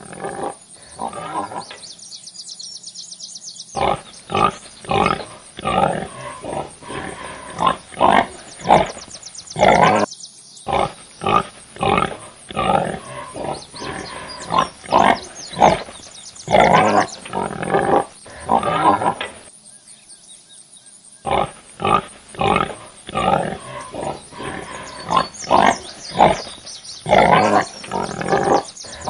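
Farm animals grunting in a rapid, irregular series of short calls, broken by a few brief pauses.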